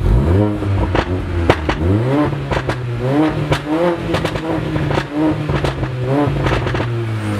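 Mercedes A45 AMG's turbocharged four-cylinder engine revved repeatedly through an Armytrix valved exhaust with the valves open, its pitch rising and falling about half a dozen times, with sharp cracks and pops between the revs.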